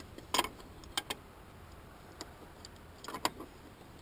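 Metal wrenches clinking as they are handled and tried on a large nut: several sharp, separate clinks, with a quick cluster near the end.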